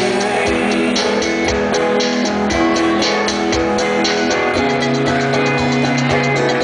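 Live rock band playing an instrumental passage between sung lines: sustained chords over a steady run of drum hits.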